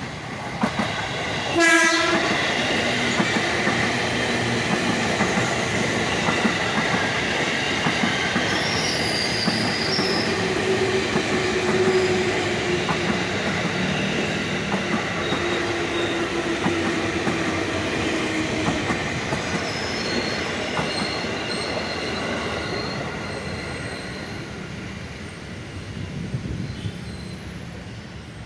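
A train horn sounds one short blast about two seconds in, then a KRL commuter electric multiple unit passes close by: steady rolling wheel and rail noise with clickety-clack over the rail joints and a few squealing tones. The noise fades away over the last few seconds.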